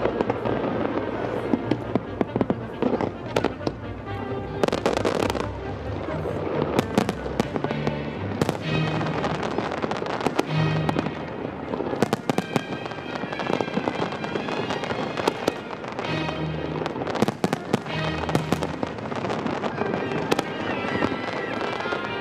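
Fireworks display: a dense, irregular run of bangs and crackles from aerial shells bursting, without pause.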